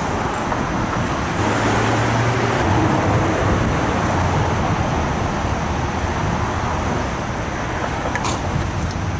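A vehicle under way: a steady low engine hum under a continuous rushing noise, with two sharp clicks near the end.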